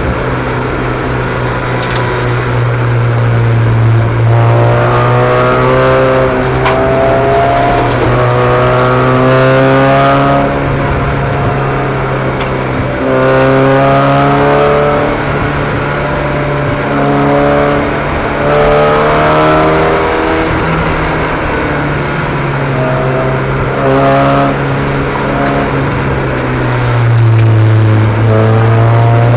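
Several small race-car engines revving up and falling back over and over as the cars lap the track, their rising pitches overlapping, over a steady low drone.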